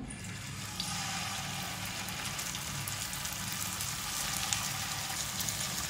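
Raw beef-mince kababs sizzling as they are laid into hot oil in a frying pan for shallow frying. A steady sizzle with scattered small crackles, which grows louder about a second in.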